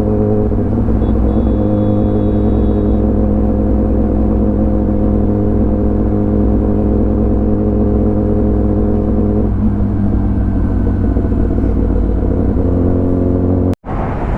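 Kawasaki ZX10R inline-four with an Arrow full exhaust system running at a steady, low engine speed, its pitch held constant. The sound cuts out for an instant near the end.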